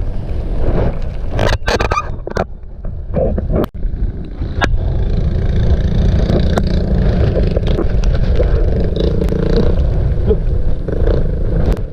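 Suzuki Raider 150 motorcycle on the move: wind rushes over the rider's microphone above a steady low engine and road rumble. Several sharp clicks cut through in the first few seconds.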